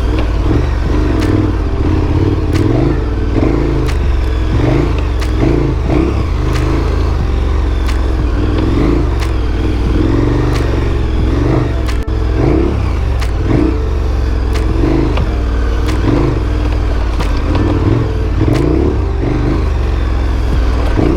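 Large adventure motorcycle's engine running under way on a rough dirt trail, with repeated clattering and scraping knocks over its steady drone.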